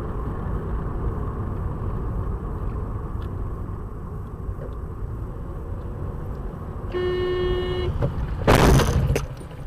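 Steady road and engine rumble of a moving car, heard from inside. Near the end a car horn sounds for about a second. Shortly after comes a loud bang, the loudest sound, like an impact.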